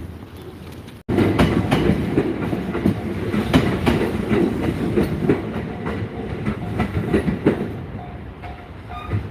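A train passing over a level crossing, its wheels clacking over the rail joints, starting abruptly about a second in. In the second half a short repeating ding, typical of the crossing's warning bell, sounds under the train noise.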